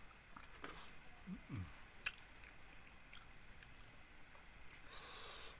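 Faint eating sounds, soft chewing and mouth noises, with one sharp click about two seconds in. A faint steady insect chirring runs underneath.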